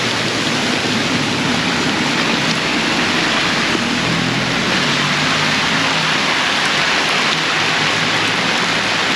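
Heavy tropical downpour: a loud, steady rush of rain pouring down and hitting the ground, with a faint low engine hum coming and going underneath.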